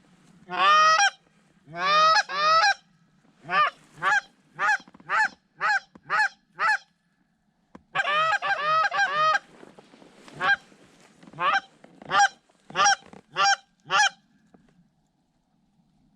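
Canada goose honking: loud, quick honks and clucks, some doubled and some single at about two a second, in runs broken by short pauses. The honking stops about two seconds before the end.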